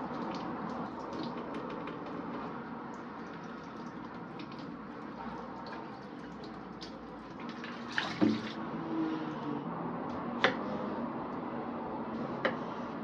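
Water running steadily from a kitchen tap into a sink, with a few sharp clinks of things being handled in it, about eight seconds in and twice more near the end.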